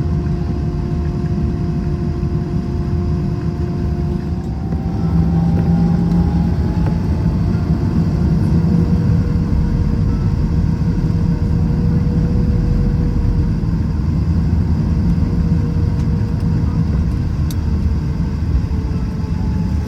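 Airbus A321 cabin noise while taxiing: a steady low rumble from the jet engines at taxi power, with a few steady humming tones. About five seconds in the tones shift slightly up and the rumble gets a little louder, then holds.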